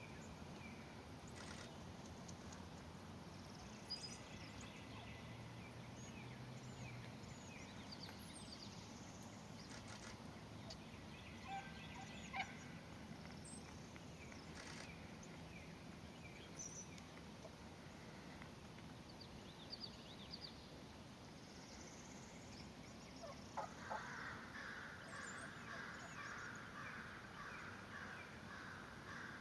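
Faint outdoor birdsong with wild turkey gobbles: scattered short high chirps over a steady low background, a few sharper calls standing out, and a busier, continuous calling setting in about three-quarters of the way through.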